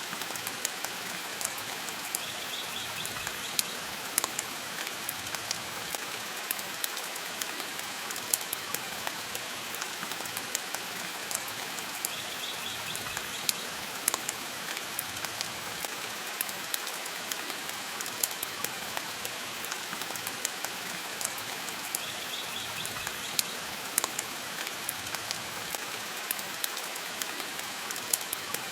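Steady rain hiss mixed with the frequent sharp snaps and pops of a crackling wood fire.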